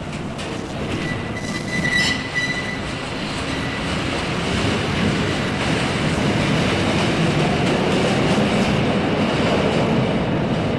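Train running on rails with a steady rumble that grows louder. A brief high wheel squeal sounds about one to two seconds in.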